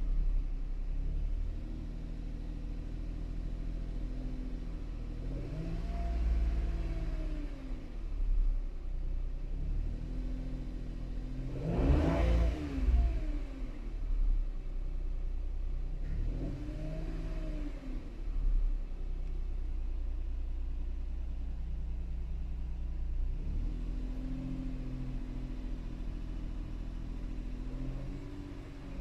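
Toyota Wigo's small petrol engine idling and being revved several times, the pitch rising and falling with each blip of the throttle. The sharpest and highest rev comes about twelve seconds in.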